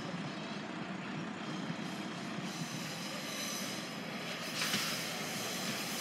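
A diesel passenger train approaching on a curved track: a steady rumble, with faint high-pitched wheel squeal coming in about halfway through and a short, louder hiss near the end.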